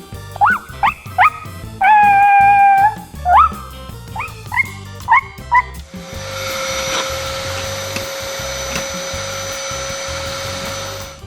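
A small dog yips and barks in short rising yelps, with one drawn-out whine, over quiet background music. About six seconds in, a vacuum cleaner switches on and runs steadily with a constant hum, cutting off near the end.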